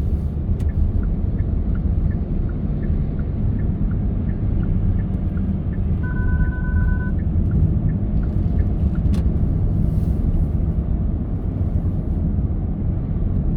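Steady road and engine rumble of a moving car heard from inside, with a run of regular light ticks, about two a second, and a short two-tone electronic beep about six seconds in.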